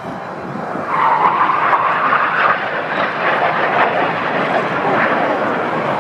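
Jet noise of a formation of Northrop F-5E Tiger II fighters flying past on their twin J85 turbojets. The noise swells sharply about a second in and stays loud.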